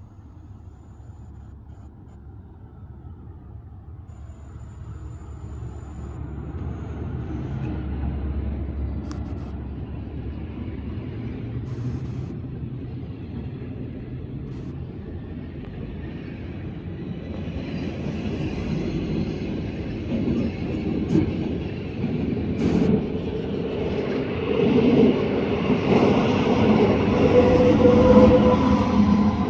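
Rhaetian Railway metre-gauge passenger train rolling along the platform, with its Ge 4/4 III electric locomotive at the rear. The rumble of wheels on rail grows steadily louder, with scattered clicks from the rail joints and a thin squeal near the end.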